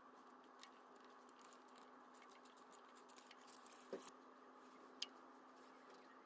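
Faint scattered clicks and light taps of hand work on a car engine during timing-belt removal, over a low steady hum, with a slightly louder knock about four seconds in and a sharp click about a second later.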